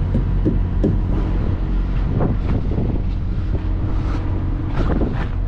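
Road-train prime mover's diesel engine idling steadily, with wind buffeting the microphone and a few light clicks in the first second.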